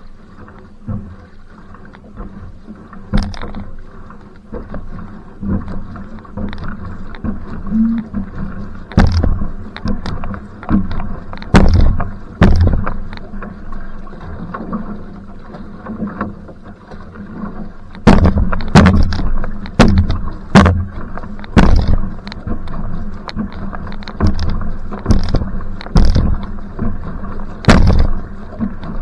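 Va'a outrigger canoe being paddled hard, water rushing with wind buffeting the microphone in a headwind. Sharp knocks and splashes come irregularly at first, then about once a second in the second half.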